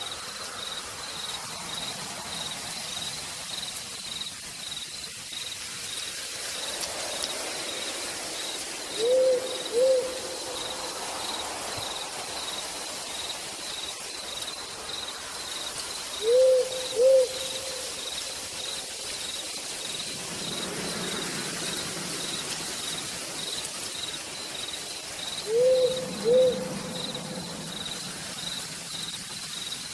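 Steady rain hiss with an insect chirping in an even, regular pulse, and an owl giving a pair of short hoots three times, about every eight seconds.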